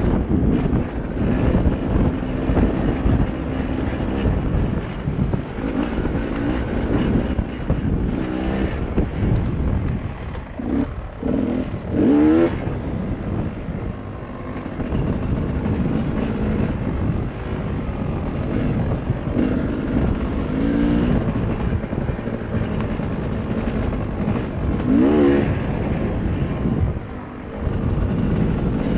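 Dirt bike engine running while riding, revs climbing and dropping several times as it pulls through the gears.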